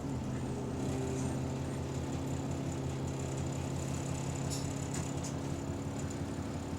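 Bus diesel engine settling after its revs fall, then running steadily, heard from inside the bus, which has a small exhaust leak. A faint steady high whine runs alongside, with a few light clicks about two thirds of the way through.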